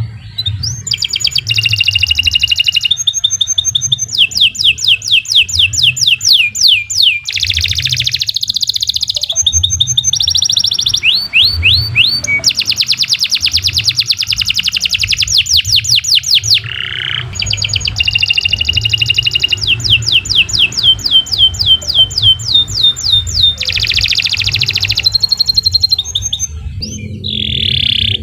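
Domestic canary singing a long, continuous song: fast rolls of repeated high notes, switching to a new phrase every second or two with only brief breaks.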